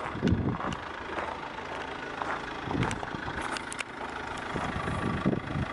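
Car engine idling steadily, with scattered clicks and knocks over it.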